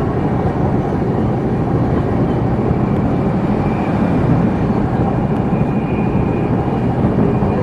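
Express passenger train running at a steady 130 km/h: a constant rumble of wheels on the rails and rushing noise, with a faint high whine coming and going near the middle.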